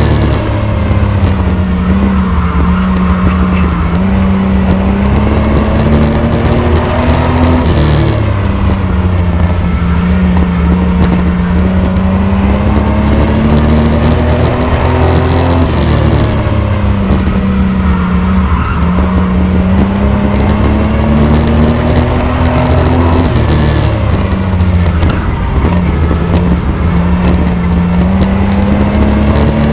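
Race truck's engine running hard through laps of a short oval track: the pitch climbs on the straights and drops off into the turns, repeating about every eight seconds, over a constant loud drone.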